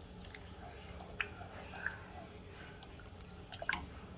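A spoon stirring soup in a pot: a few light clinks and soft wet sounds over a low steady hum.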